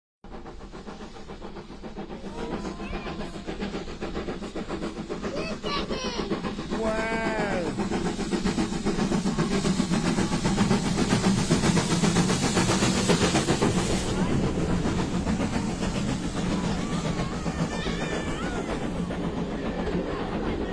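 Steam train running, a steady rumble and rattle that grows louder over the first half and eases a little after, with people's voices calling out over it.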